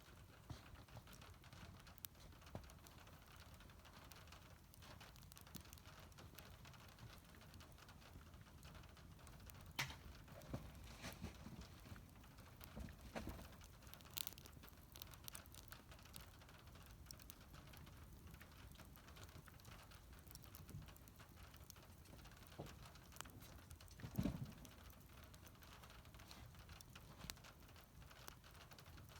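Wood fire burning quietly, with faint scattered crackles and pops; the sharpest pops come about ten seconds in and again near the end.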